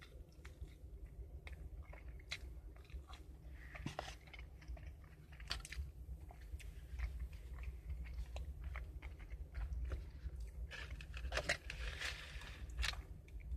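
A person chewing and biting fast food, with scattered small crunches and mouth clicks, over a steady low hum.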